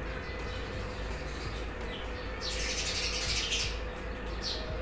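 Birds chirping, with a busier burst of chirping about two and a half seconds in, over a steady low hum.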